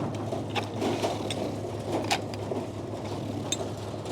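Sawmill machinery running with a steady low engine hum, with a few scattered sharp knocks and clanks as the log is turned on the carriage.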